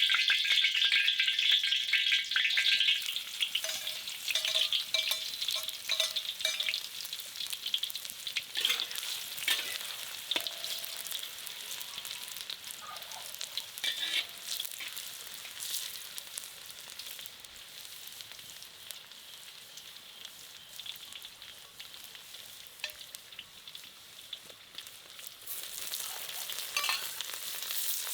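Food sizzling and crackling in a hot pan, with occasional clicks of a utensil against the pan. The sizzle is loudest at the start and dies down gradually, picking up again near the end.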